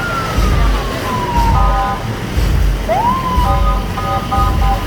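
Road traffic with vehicle horns honking in steady multi-note blasts, and a siren-like tone that twice sweeps up and then slowly slides down. An irregular low rumble runs beneath.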